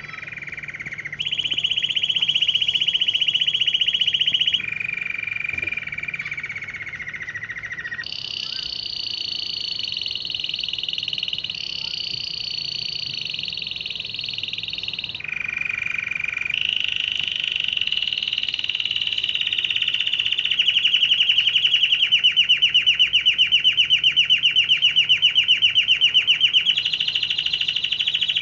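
Canary singing a long song made of rapid trills, each held at a steady high pitch for a few seconds before switching abruptly to the next, then one long fast rolling trill lasting about ten seconds near the end.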